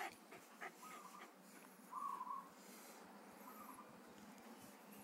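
Faint short hooting bird calls in the background, three of them about a second apart, each a brief steady note, with a few faint clicks.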